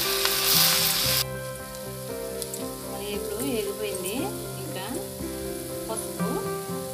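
Oil sizzling in a kadai as punarnava leaves are stir-fried with a steel spoon. The sizzling is loud at first, then drops suddenly about a second in to a quieter sizzle with light clicks of the spoon against the pan.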